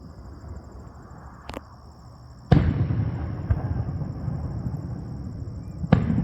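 Aerial fireworks shells bursting: a small sharp crack, then a loud boom about two and a half seconds in that rolls on in a long rumbling echo, and another sharp boom near the end.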